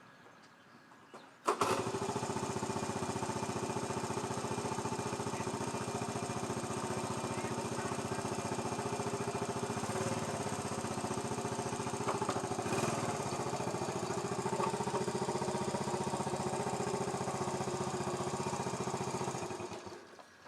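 1980 Honda ATC70's small four-stroke single-cylinder engine catching suddenly about a second and a half in on a cold start with the choke off, then running steadily, a little louder for a moment about two-thirds of the way through, before stopping near the end.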